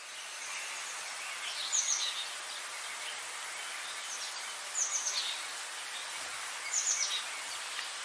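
A bird calling three times, each call a short quick run of high notes, about two to three seconds apart, over a steady hiss of outdoor ambience.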